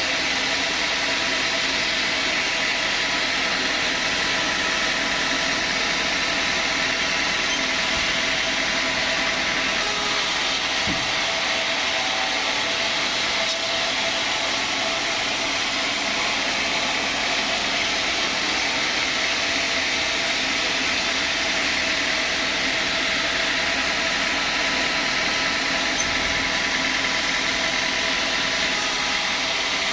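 Sawmill saw running steadily at a constant level, with a faint steady whine over a dense mechanical noise.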